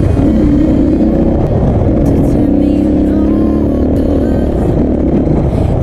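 Dirt bike engine running steadily as it is ridden along an off-road trail, with heavy wind rumble on the microphone.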